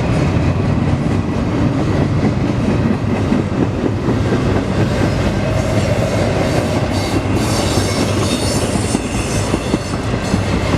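Double-stack container train's freight cars rolling past close by: a steady, continuous rumble of steel wheels on the rails.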